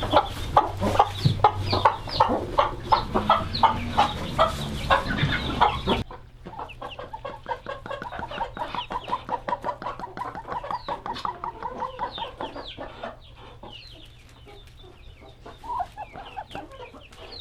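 A flock of chickens clucking, with many short calls overlapping. The sound drops abruptly about six seconds in, from a loud, busy din to quieter, quicker runs of clucks.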